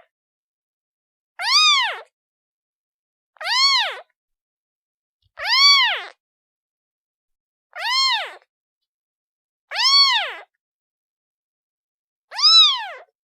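A kitten meowing to call its mother: six separate high meows about two seconds apart, each rising and then falling in pitch.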